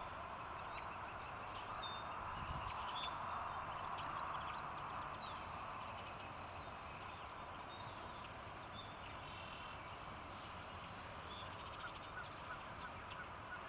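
Outdoor morning ambience: small birds chirping now and then, with short high calls and quick downward sweeps, over a steady background hiss.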